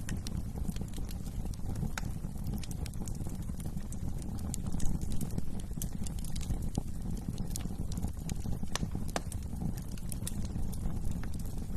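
Wood fire burning in a fireplace: a steady low rumble from the flames, with frequent sharp crackles and pops and one louder pop about five seconds in.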